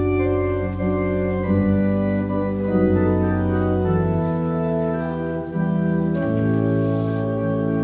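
Organ playing slow, sustained chords that change every second or two over a bass line.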